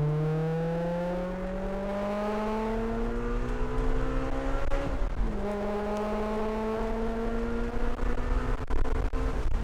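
Honda S2000's four-cylinder engine pulling under acceleration, heard from inside the cabin, its pitch rising steadily for about five seconds. Then a gear change drops the pitch, and it climbs slowly again. It is running on a freshly replaced timing chain tensioner.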